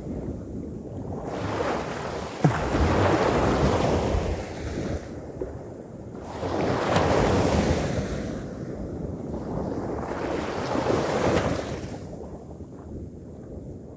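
Ocean waves breaking and washing in, swelling and fading every few seconds, with wind rumbling on the microphone. A brief sharp thump about two and a half seconds in.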